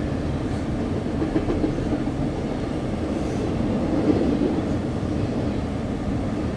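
CSX intermodal freight train rolling past at track speed: a steady noise of steel wheels running on the rails.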